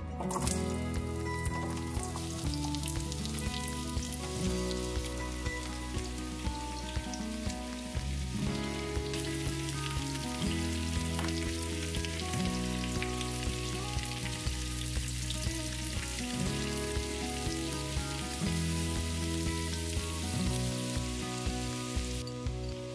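Carrot slices sizzling in hot sunflower oil in a non-stick frying pan, the sizzle starting abruptly as they are tipped in, over background music.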